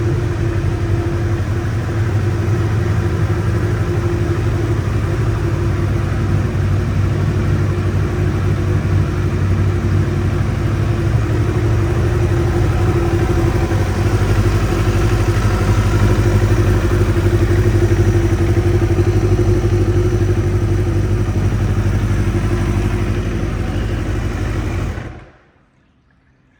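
Kawasaki ZXR750R's inline four-cylinder engine running steadily through a full Micron exhaust, with no revving. It cuts off suddenly near the end.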